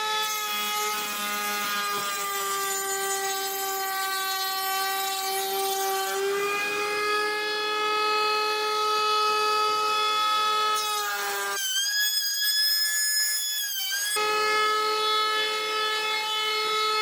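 Handheld router mounted upside down in a saw-table extension, running at speed with a steady high whine. About six seconds in the pitch steps up a little, and for a couple of seconds after the middle a higher whine takes over before the steady tone returns.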